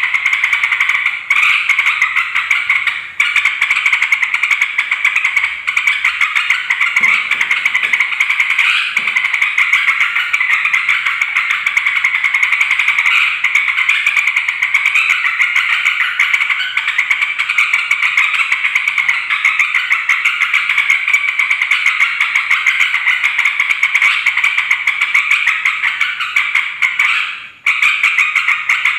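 Yellow-vented bulbuls (trucukan) calling noisily: a dense, unbroken stream of rapid chattering chirps, with a short break near the end.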